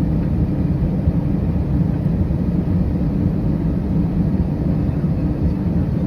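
Steady low rumble of cabin noise inside an Airbus A319 airliner, with no change in level or pitch.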